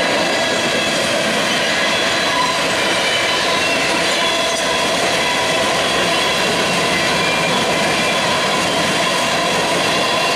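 Freight train's cars rolling past: a loud, steady noise of steel wheels running on the rails, with a few thin, high, steady whining tones over it.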